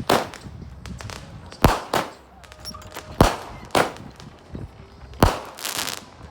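Backyard consumer fireworks going off: five sharp bangs at uneven gaps of about half a second to a second and a half, some followed by a brief crackling hiss.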